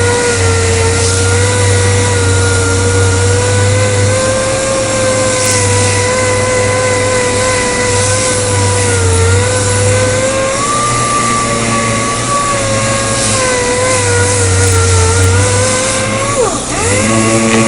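Handheld power tool motor running steadily with a whine that wavers in pitch, as when it is worked against the bumper plastic. Near the end the pitch dips sharply and recovers, and it settles on a slightly different tone.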